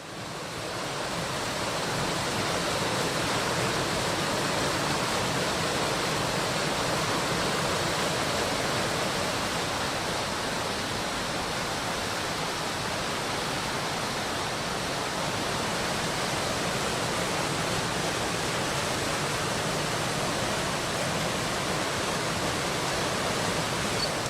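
Fast mountain stream rushing over rocks: a steady, even rush of water that fades in over the first couple of seconds and cuts off at the end.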